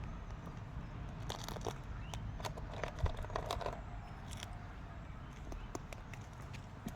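Crinkly rustling and crunching with scattered small clicks and one sharp thump about three seconds in: someone moving about at a washing line, handling laundry and clothespins.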